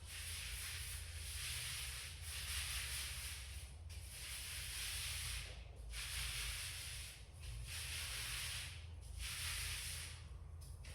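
A paint roller rolled back and forth over a wall in about six long hissing strokes with short pauses between them. A steady low hum runs underneath.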